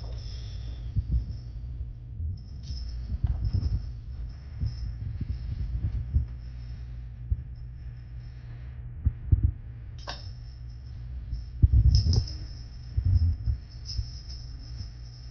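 Irregular low thuds and rumble of handling noise on the microphone, loudest in a cluster about twelve seconds in.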